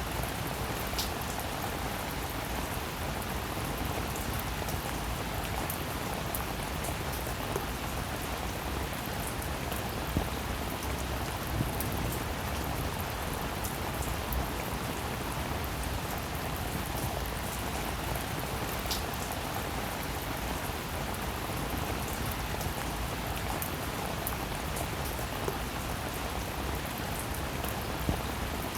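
Steady, even rainfall, with scattered sharper ticks of single drops; a couple of them stand out, about a second in and about two-thirds of the way through.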